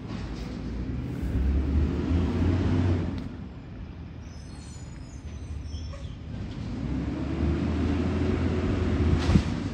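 Heavy truck engine running with a low rumble that swells up twice and eases off between, with a short sharp knock near the end.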